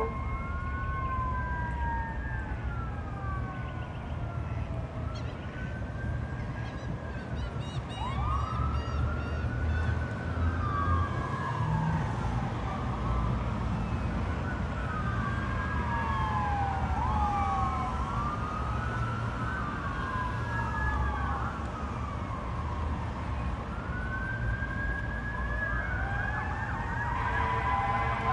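Fire truck siren wailing, its pitch rising and falling in repeated sweeps that overlap at times, over a low rumble of engine and traffic.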